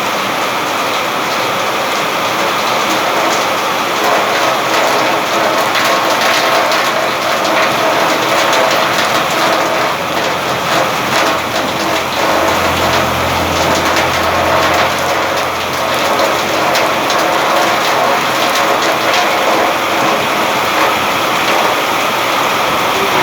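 Steady rain falling on surfaces, a dense even hiss full of separate drop hits. A low rumble rises under it for a few seconds around the middle.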